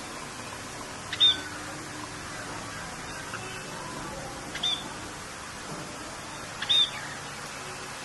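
Bird calls over a steady hiss of rain: three short, high chirps stand out, about a second in, near the middle and near the end, with fainter calls between.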